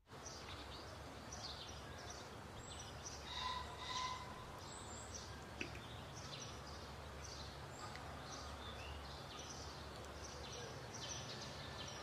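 Small birds chirping again and again, short high calls over a steady low background hum of outdoor noise.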